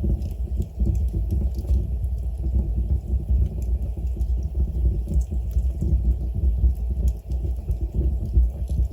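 Wood fire burning in a fireplace: a steady low rumble of the flames with faint, scattered light crackles from the logs.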